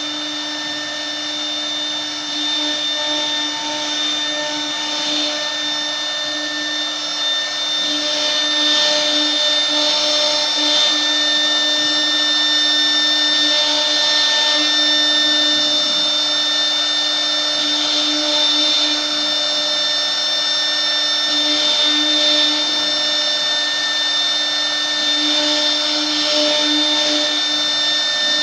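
1325 CNC router running, its spindle giving a steady whine over the rushing hiss of the bit cutting, which swells and fades about every four seconds as the tool moves through its passes.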